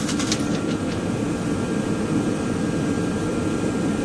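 Steady machine hum of a running fan, with a short burst of crackling clicks right at the start.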